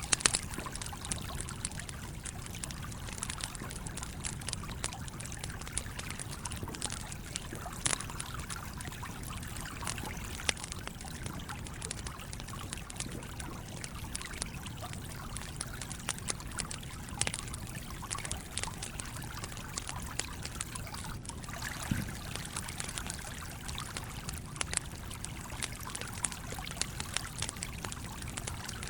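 A stream flowing and trickling steadily, with a wood campfire crackling over it in many small irregular pops.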